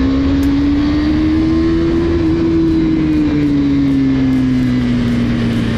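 KTM 390 Duke single-cylinder engine running under load at road speed. Its note rises slightly, then slowly drops as the throttle eases. Wind rush is heard over the mic.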